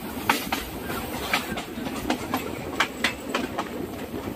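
Train running on rails, a steady rumble with sharp clickety-clack as the wheels pass over rail joints in quick pairs, several times.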